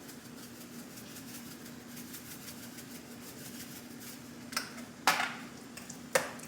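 Black pepper being shaken over a bowl of mashed potatoes: two short rattling shakes about four and a half and five seconds in, then a sharp click a second later. A steady low hum runs underneath.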